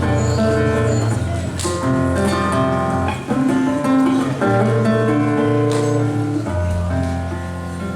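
Acoustic rock band playing live: strummed acoustic guitar with low bass notes, getting quieter near the end as the song winds down.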